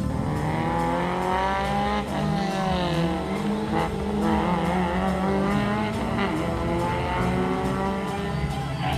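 Race car engines accelerating hard, their pitch climbing and then dropping several times as they rev through the gears.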